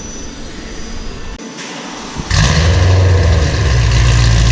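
BMW E92 M3's 4.0-litre V8 starting up about two seconds in through a straight-piped, decat Armytrix exhaust, catching loudly and settling into a steady idle.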